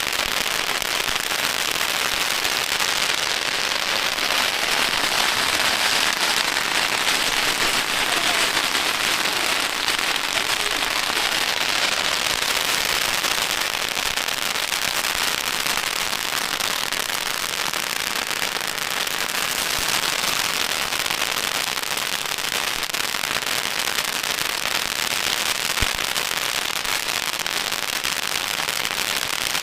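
Long strings of firecrackers going off in a dense, unbroken crackle of rapid pops, with one sharper crack near the end.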